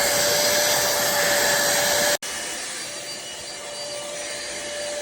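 Cordless handheld vacuum cleaner running: a steady whining hiss. About two seconds in it breaks off for an instant and comes back quieter.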